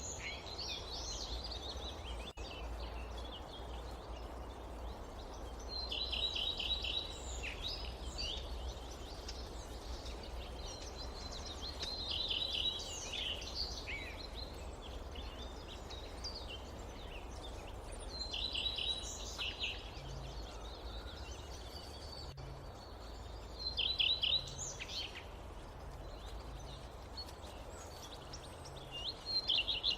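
Forest ambience: a songbird repeats a short, quick phrase of rapid notes about every six seconds, over a steady low rumble of background noise.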